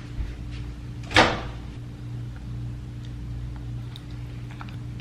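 Microwave oven running with a steady hum, likely on a 30-second heating. A single sharp knock, such as a door or cupboard, about a second in.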